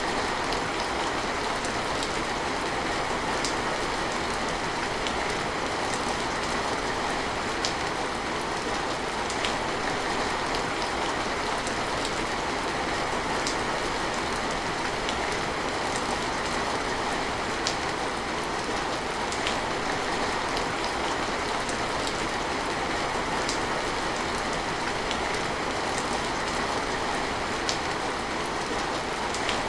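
Steady rain falling, with individual drops ticking sharply every second or two over the even hiss.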